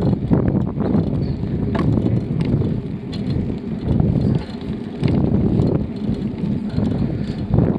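Riding a bicycle: heavy wind buffeting on the microphone and rumble from the tyres on the path, with scattered small clicks and rattles.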